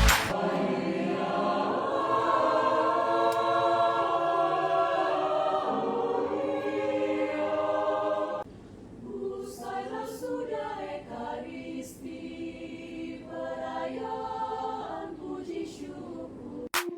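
A parish choir singing unaccompanied, holding long chords. About eight seconds in it drops quieter into short, broken phrases, and the sound cuts off suddenly just before the end.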